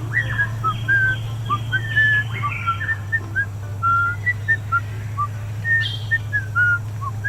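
Quick, short whistled chirps, several a second and each gliding a little in pitch, over a steady low hum.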